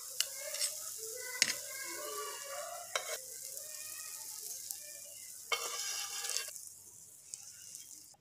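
Potato chapli kababs sizzling in hot frying oil, with a few sharp clicks of metal tongs. The sizzle swells for a moment past the middle and dies down near the end.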